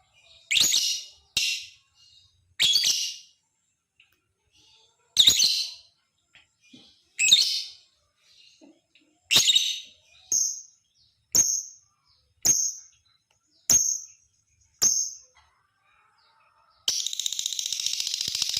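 Lovebird giving a series of sharp, short shrieking calls, one every second or two, the later ones thinner and higher. Near the end it breaks into a continuous rapid chattering trill, the long 'ngekek' chatter.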